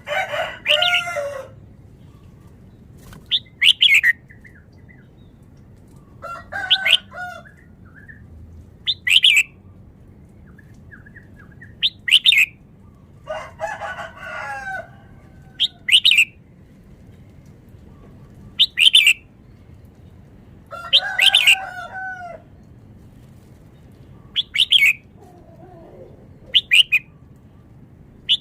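Red-whiskered bulbul singing short, quick song phrases about every three seconds. Lower, longer calls come in between.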